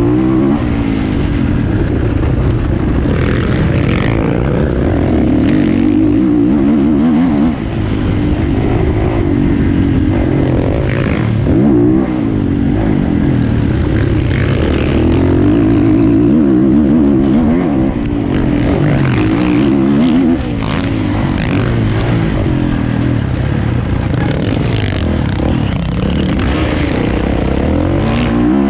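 450cc motocross bike engine being ridden hard, its revs rising and falling continually as the throttle opens and closes, with brief dips about a third of the way in and again about two thirds through.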